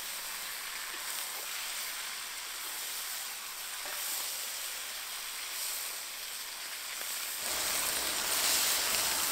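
Carrots and onions frying in hot oil in a cast-iron kazan, a steady sizzle as the carrots cook until they change colour for plov. The sizzle gets louder about seven seconds in.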